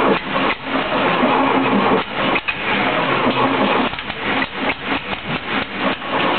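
Air-cooled 1641cc VW flat-four engine of a sandrail running, with an uneven beat that dips and surges irregularly. It is running for the first time after a new cylinder barrel, piston and head were fitted.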